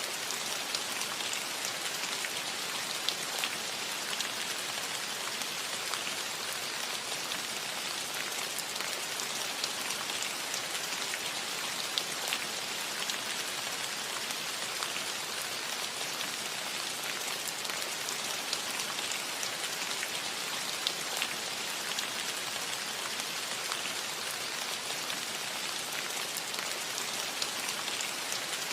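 Steady light rain on a metal roof: an even patter with many small, sharp drop ticks scattered through it.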